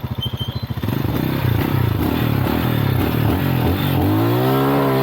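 Motorcycle engine running, slow and pulsing at low revs for about the first second, then revs swinging up and down several times before climbing about four seconds in and holding.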